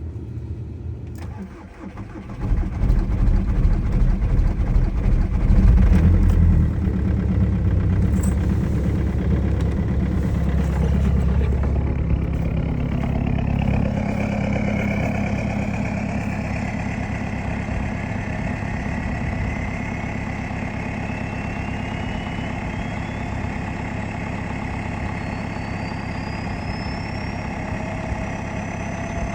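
Cold start of a 2006 VW Jetta's 1.9L BRM PD100 TDI four-cylinder diesel at about −15 °C: it catches about two seconds in, runs loud and rough for a few seconds, then settles into a steadier cold idle. In the second half a thin whine slowly rises in pitch.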